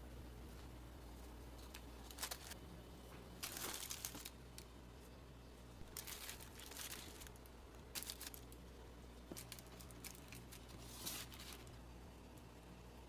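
Intermittent bursts of crinkling and rustling over a low steady hum.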